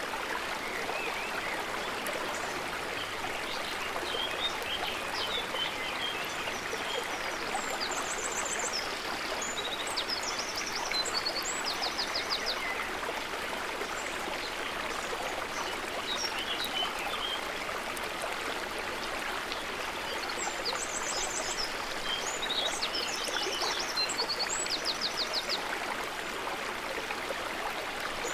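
Running water of a river or stream, a steady, even rush. Birds sing twice over it, a burst of chirps and quick trills about eight seconds in and again about twenty seconds in.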